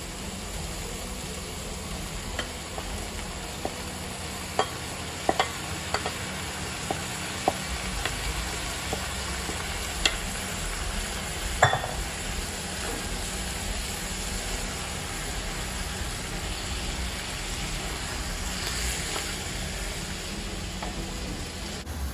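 Sliced mushrooms, tofu and shrimp sizzling steadily in a hot frying pan. Scattered sharp clicks and knocks come as a wooden spoon pushes the mushrooms off a bowl into the pan, the loudest about twelve seconds in, followed by stirring.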